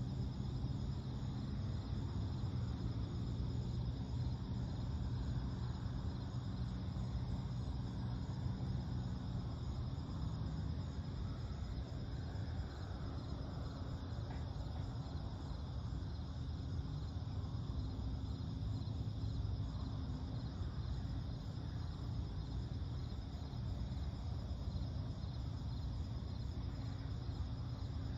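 Steady chorus of crickets, a continuous pulsing trill, over a low steady rumble.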